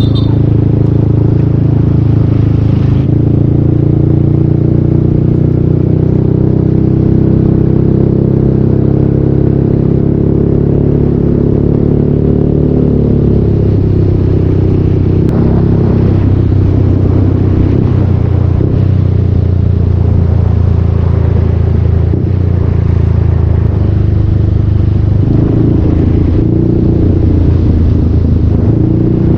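Yamaha Aerox 155 scooter's single-cylinder engine through a full Yoshimura exhaust, running steadily under way. Its pitch drops about halfway through as the scooter slows, then holds steady again with a slight rise near the end.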